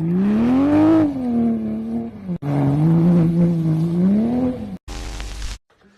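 Toyota Supra's engine revving hard while drifting, its pitch rising and then falling. About two and a half seconds in it cuts suddenly to another car's engine, which runs steady and then rises and falls again. Near the end comes a short burst of noise.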